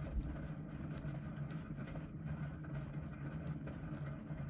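Faint light clicks and small scrapes of steel watchmaker's tools working at the train bridge of a quartz watch movement, over a steady low hum.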